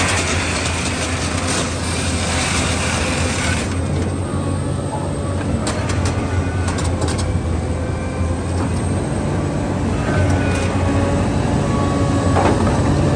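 Heavy diesel engine running steadily with a deep hum, a hiss over it that cuts off about four seconds in, and a few short clicks and knocks after.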